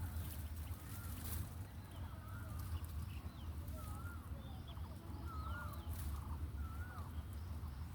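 Short warbling bird calls repeated about once a second, over a steady low rumble.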